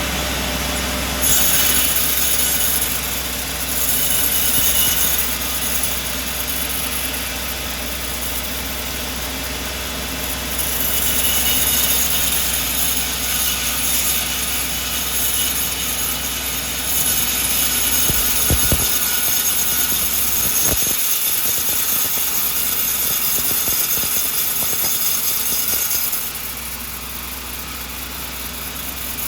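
Sawmill running with its blade cutting through a coconut log: a steady machine hum under a loud high hiss that swells and eases several times and falls away near the end.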